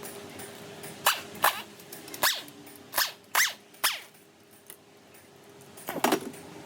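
A dog barking: a quick run of about six short barks, each falling in pitch, then one more near the end.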